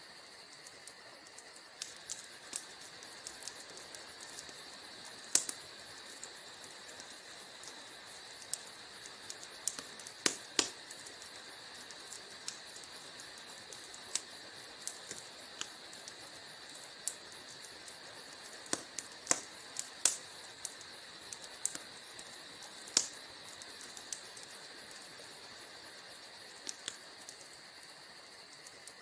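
Wood fire crackling in a fireplace: a steady soft hiss with irregular sharp pops and snaps, a few much louder than the rest.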